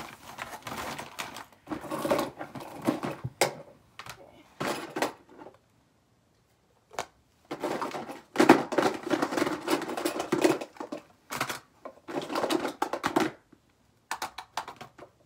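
Small household items being handled and set down, a run of clicks, knocks and clatter with rustling between, pausing briefly twice.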